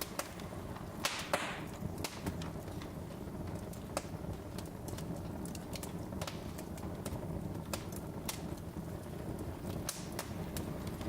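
Wood fire crackling: irregular sharp pops and snaps over a low, steady rumble of flame, with a louder pop and a brief hiss about a second in.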